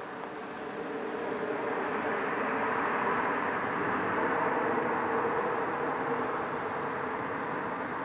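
Jet engine noise from a landing Boeing 737-800 with CFM56-7B engines: a steady roar that swells to a peak about four seconds in, then eases slightly.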